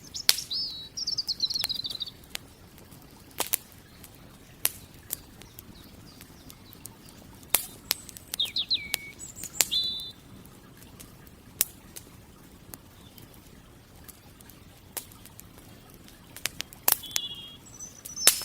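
Wood campfire crackling, with sharp pops and snaps at irregular intervals. Songbirds sing short trilled and whistled phrases three times: about a second in, about halfway through, and near the end.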